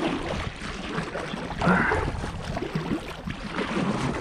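Kayak being paddled quickly: paddle strokes dipping and splashing in the lake water, with the hull moving through it.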